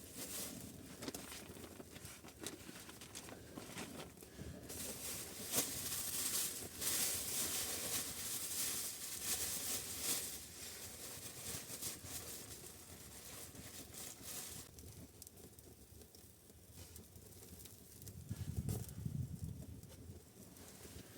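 Irregular rustling and crackling with many small clicks, loudest and hissiest in the first half, and a low rumbling thump-like burst near the end.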